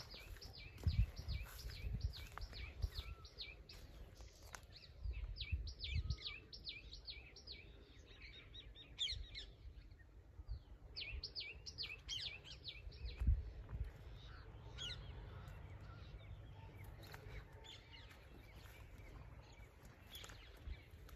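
Small birds chirping in bursts, each a quick run of sharp downward-sliding notes repeated several times a second. Low thumps of footsteps sound underneath, the loudest about a second in and about thirteen seconds in.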